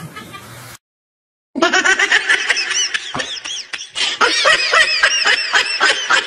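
Several people laughing in quick high-pitched ha-ha bursts, several voices overlapping, starting suddenly after a moment of silence a second and a half in.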